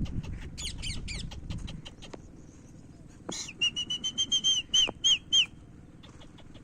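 Pet parrot calling: quick chirps and clicks with a low rumble at first, then a rapid run of about ten short, high whistled notes, the last few falling in pitch.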